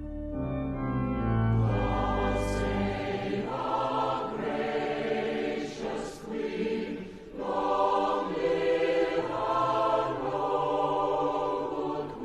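Choral music: several voices singing long held chords that change every second or two, with a deep low note under the first few seconds.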